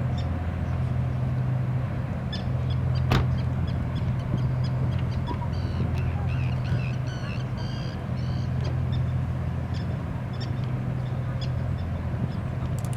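A low, steady engine drone, typical of a passing ship, with a few short bird calls over it and one sharp click about three seconds in.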